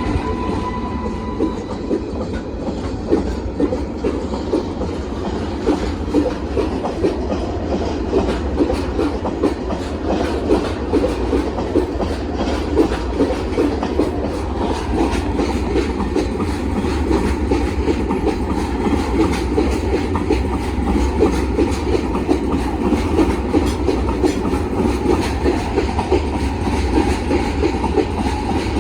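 Freight train wagons rolling past with a continuous low rumble and a dense, uneven clickety-clack of wheels over rail joints.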